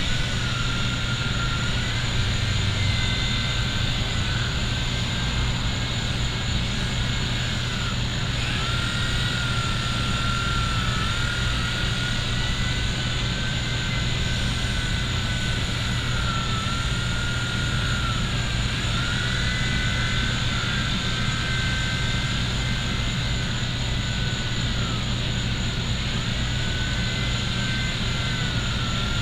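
WLtoys V911 micro RC helicopter's electric rotor motors whining in flight, the pitch rising and falling as the throttle changes through climbs and turns.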